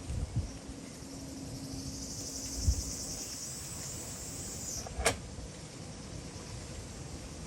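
A high-pitched insect trill rises for about three seconds in the middle and then stops, over a few soft knocks and one sharp click about five seconds in.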